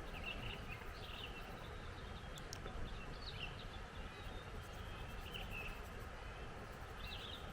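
Small birds chirping in short calls every second or two over steady wind rumbling on the microphone.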